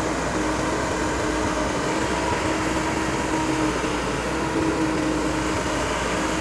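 A machine running steadily: a constant mechanical noise with a steady hum.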